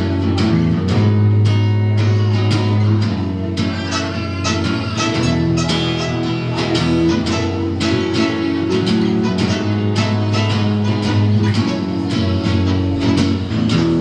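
Live band playing an instrumental passage before the vocals come in: strummed guitar over sustained bass notes, with a steady beat.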